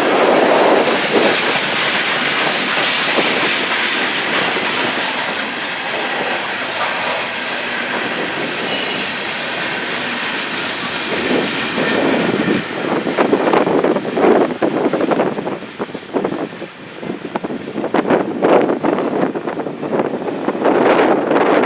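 Freight cars of a grain train rolling past on the rails: a steady rush of wheel and rail noise, turning about halfway through into an uneven clatter of wheels clicking over rail joints.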